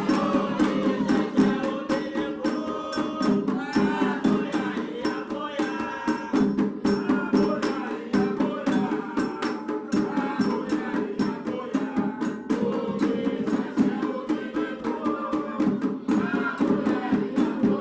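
Candomblé ritual music for Oxum: fast, steady hand-drumming on atabaque drums led by the rum, with rattling percussion, under singing voices.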